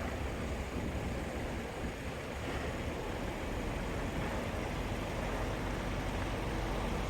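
Steady road traffic noise, a low rumble under an even hiss, growing slightly louder about two and a half seconds in.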